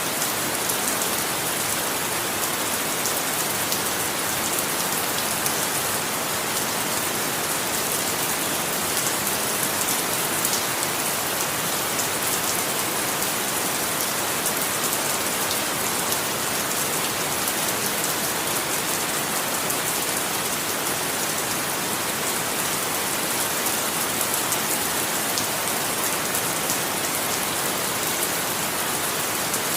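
Steady rain falling, an even hiss dense with small drop patters, unchanging throughout.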